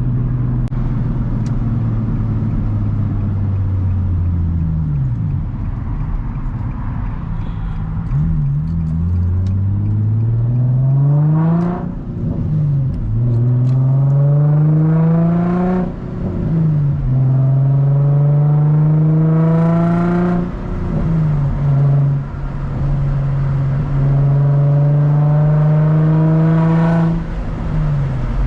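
Infiniti G35's VQ35 3.5-litre V6 with the muffler and resonator removed, heard from inside the cabin. The engine note falls at first, then climbs under acceleration through the gears of the manual gearbox, dropping sharply at each of about four upshifts.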